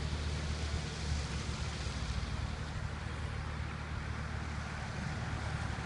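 Wind rushing over the microphone, with a steady low engine hum underneath.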